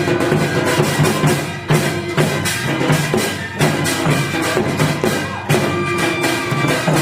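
Korean traditional music for the Jindo drum dance (Jindo bukchum): a quick run of drum and percussion strokes over held melodic lines from the accompanying ensemble.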